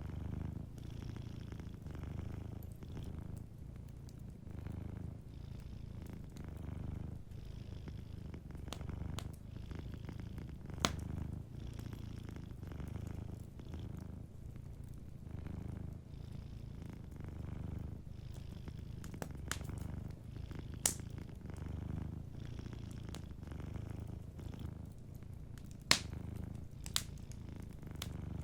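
Domestic cat purring steadily and low, swelling and easing with each breath in and out, while a wood fire gives a few sharp, isolated pops.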